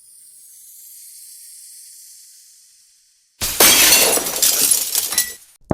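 A faint high hiss, then about three and a half seconds in a sudden loud crash of shattering glass lasting nearly two seconds, with a sharp clink near the end.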